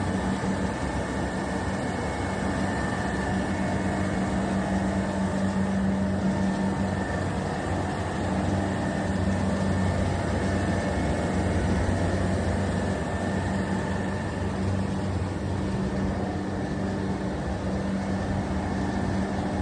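Air-cooled chiller running: a steady low hum over a wash of fan noise, with a faint high whine.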